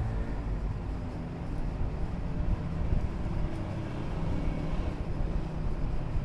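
Steady low mechanical rumble of running machinery, with no distinct strikes or starts and stops.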